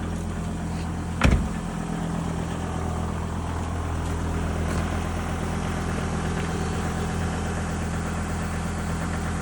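Volvo S80 D5's five-cylinder turbodiesel idling steadily soon after a cold start in about −10 °C. A single sharp knock sounds about a second in.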